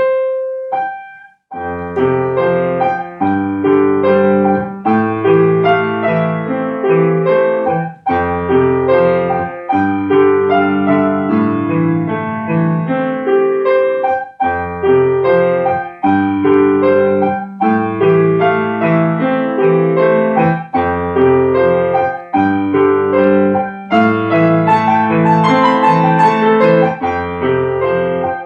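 Piano played solo: a couple of single notes, then a driving, loud passage of repeated chords over a heavy bass, with short breaks between phrases.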